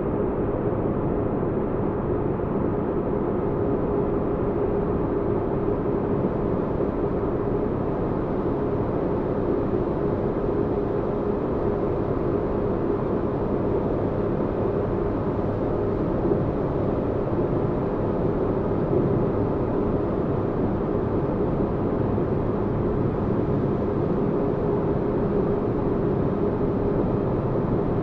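Sci-fi spaceship-interior ambience: a steady, deep rumbling noise with a constant hum. It runs unchanged, with no distinct events.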